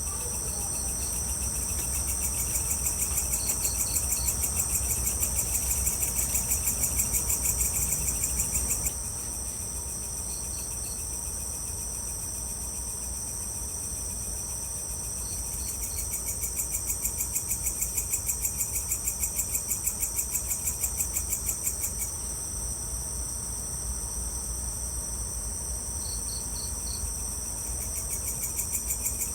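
Evening chorus of crickets and other insects: a steady, high, fast-pulsing trill. A lower, louder trill sets in for stretches of several seconds and then drops out, and short three-note chirps recur every few seconds. A faint low rumble lies underneath.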